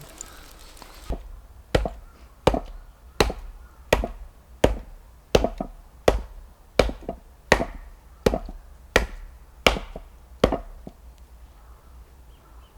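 A steady series of about thirteen chopping strikes, roughly one and a half a second, that stop about two seconds before the end.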